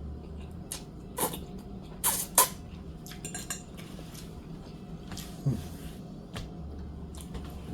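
Eating utensils clinking against a dish a handful of times, a few of the knocks ringing briefly, over a steady low hum.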